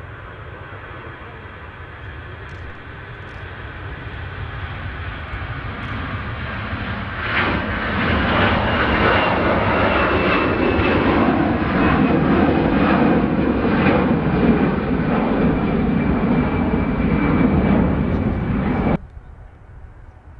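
Jet airliner's engines growing steadily louder as it passes close by, a high whine over a loud rushing noise, then cutting off suddenly near the end.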